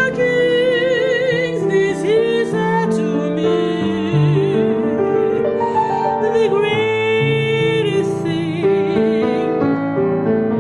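Slow song: a singer holding long notes with strong vibrato over piano accompaniment.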